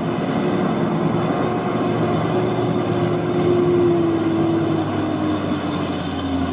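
Truck engine running with a steady drone, its pitch easing slightly lower in the second half.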